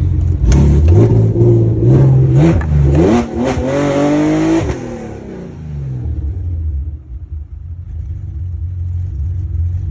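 Dodge 350 diesel truck engine revving under load, its pitch climbing for about four seconds with a few sharp knocks along the way, then backing off about halfway through to a lower, steady running sound.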